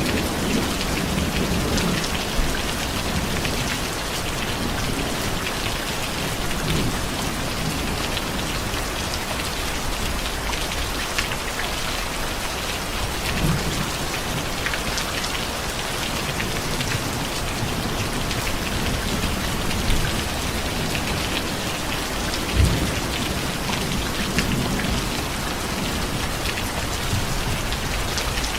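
Steady heavy rain falling on a surface, an even hiss with close drops, broken a few times by short low rumbles of thunder.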